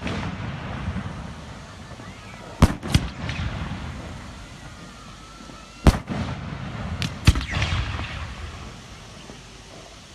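Aerial fireworks exploding in sharp, gun-like bangs: a pair a few seconds in, a single bang around the middle and another pair near the end, each followed by a rolling rumble of echo.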